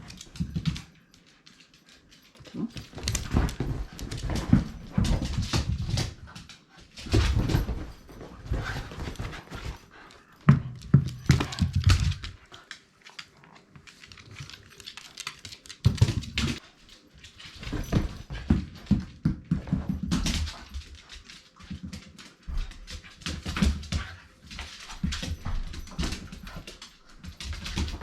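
Shiba Inu playing rough with a ball: bursts of clattering, scrabbling and thudding, each a few seconds long with short pauses between, and the odd dog whimper.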